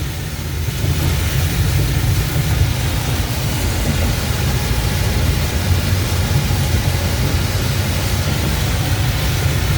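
Inside a car driving through heavy rain and strong wind: a steady low road rumble under an even hiss of rain and wet tyre spray.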